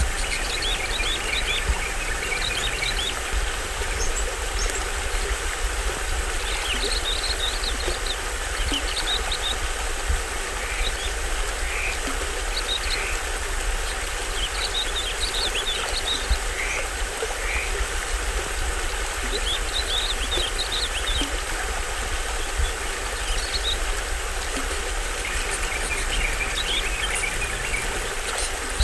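Small stream waterfall rushing steadily, with a low rumble underneath and short runs of high bird chirps every few seconds.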